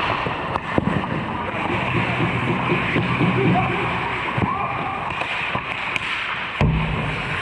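Ice hockey play: skates scraping and carving on the ice, with sharp clacks of sticks and puck and distant shouting players. A louder hit with a low thud comes near the end, like a puck or body against the boards.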